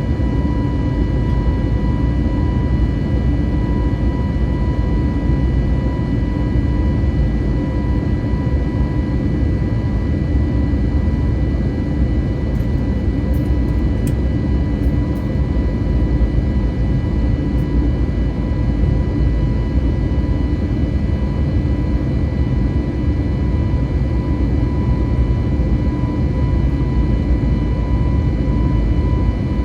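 Cabin noise inside an Airbus A320neo with CFM LEAP-1A engines: a steady, loud rush of engine and airflow noise, heaviest in the low range, with a faint steady whine over it.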